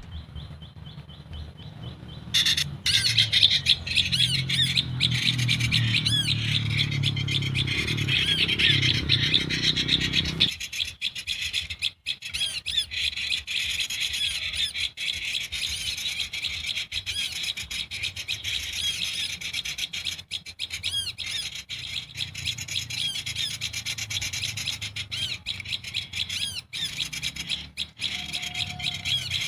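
Dense, continuous rapid high chirping of prinias (prenjak), with a low rumble underneath that stops abruptly about ten seconds in.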